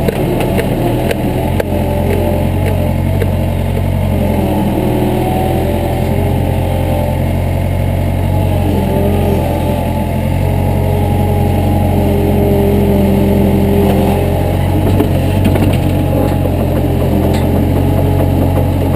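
Engine running steadily at a constant speed, a low, even drone with little change in pitch.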